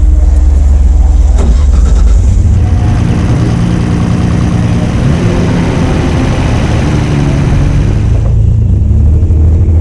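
Nissan S13 drift car's engine running loud, low and pulsing at first, then rising and falling in pitch as it revs from about three seconds in, dropping back low near the end.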